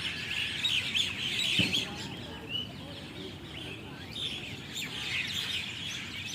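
Dense, continuous chattering of a large flock of starlings and other birds settling into a tree to roost for the night, many overlapping high chirps and calls. A brief low knock sounds about a second and a half in.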